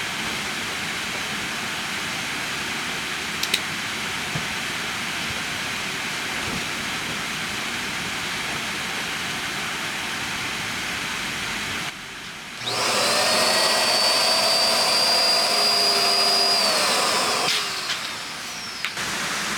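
Steady hiss of rain, then about twelve seconds in a small electric motor starts with a whine, runs for about five seconds at a slightly rising pitch, and winds down.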